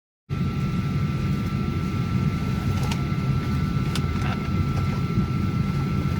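Steady low hum of a Boeing 737-800 airliner, as heard in its cabin, with a thin steady whine on top and a couple of faint clicks about three and four seconds in. It cuts in just after the start.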